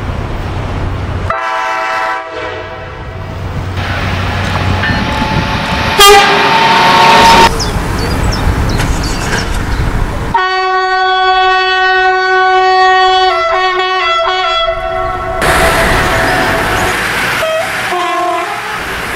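Makrofon train horns sounding over passing-train noise: a short blast about a second in, then the rumble of a train running by, then a long blast of about five seconds from about ten seconds in, several tones at once, stepping in pitch near its end, and a brief blast near the end.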